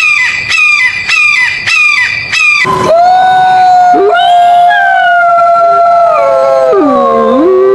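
Short, high, repeated yelping calls about one every 0.6 seconds, then from about three seconds in a long animal howl joined by a second overlapping howl, both sliding down in pitch near the end.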